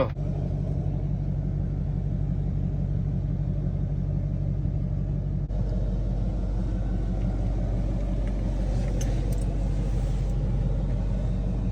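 Dodge Durango SRT's V8 engine idling with a steady low rumble.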